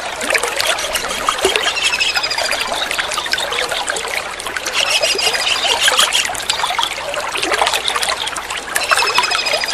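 Water trickling steadily, with a kingfisher calling over it in short, rapid runs of high notes that recur every few seconds.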